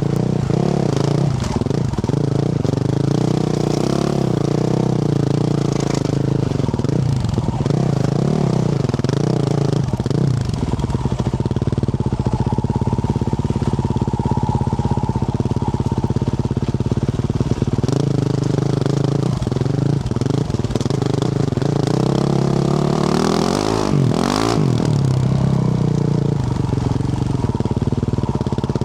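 Yamaha YZ450F's single-cylinder four-stroke engine with a Yoshimura RS-12 exhaust, running under riding load, the revs rising and falling again and again with the throttle.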